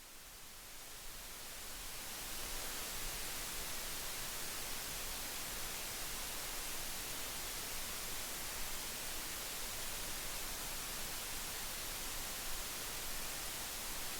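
Steady hiss that fades in over the first two seconds and then holds level.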